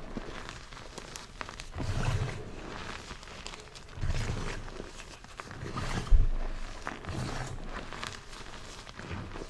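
Blocks of gym chalk crushed by hand, crunching and crumbling in irregular bursts with fine crackling in between, and a sharp crack about six seconds in.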